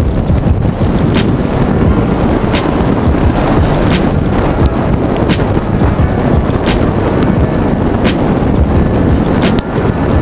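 Hurricane-force wind buffeting the microphone in a loud, rumbling roar. Under it runs a lofi hip-hop beat with a light percussive hit about one and a half times a second.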